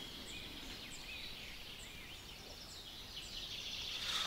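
Birdsong: short high chirps repeated about every second, faint over quiet riverside ambience. A steady high-pitched sound grows louder near the end.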